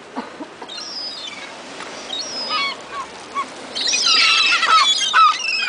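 Seagulls calling: a few single high, falling cries at first, then from about four seconds in many gulls squawking at once, louder, as the flock crowds in on food.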